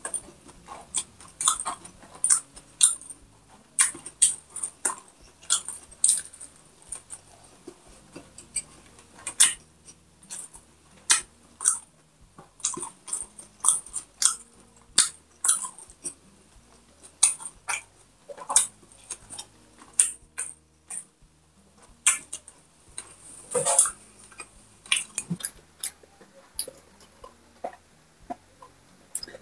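Close-miked chewing of a mouthful eaten by hand: irregular short, wet smacks and crunches, a few each second.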